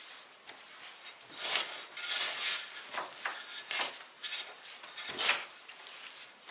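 Irregular scraping and knocking of objects being handled, in uneven strokes, the loudest a little past the middle.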